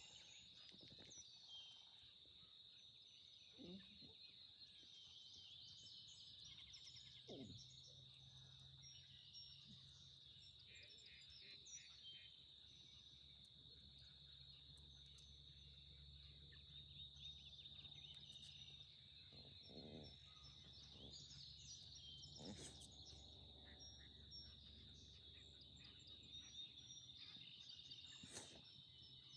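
Faint birdsong: scattered small chirps over a steady high-pitched insect drone.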